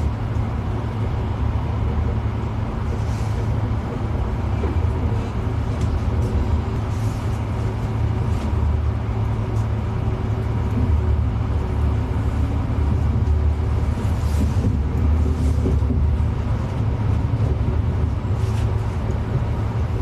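Steady low rumble of a moving vehicle, heard from inside, with faint scattered ticks and rattles.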